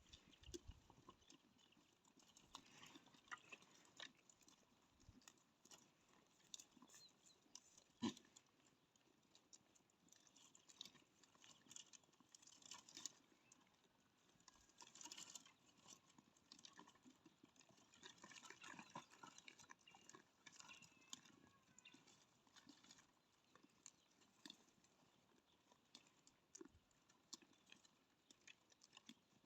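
Faint, irregular clicking and pattering of a goat herd's hooves on the ground, with one sharper knock about eight seconds in.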